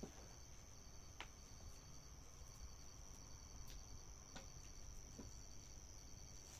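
Faint, steady, high-pitched trill of crickets, with a few faint sharp pops from a campfire.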